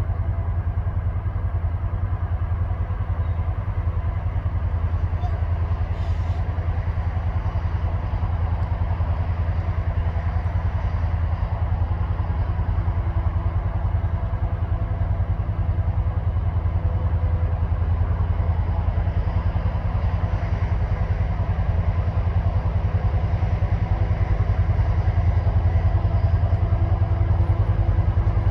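Diesel locomotive engines running with a steady deep drone as a coal train departs, growing slightly louder toward the end.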